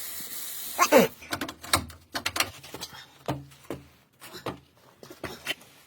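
Can of brake cleaner spraying with a steady hiss, stopping about a second in, followed by a string of light knocks and clicks.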